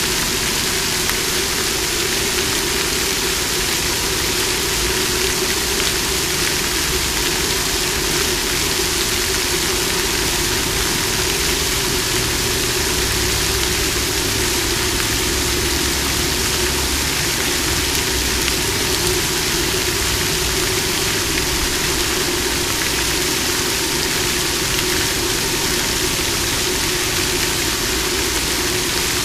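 Water fountain splashing: a steady, continuous rush of falling water.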